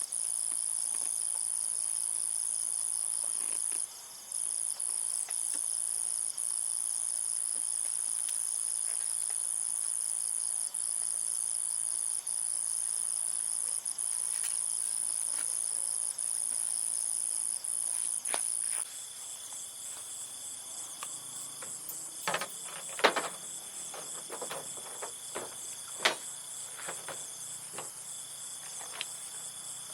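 Insects chirring in a steady high buzz. About two-thirds of the way through it changes abruptly to a pulsing insect chorus with a second, lower steady note. A handful of sharp knocks and taps come after that, two of them louder than the rest.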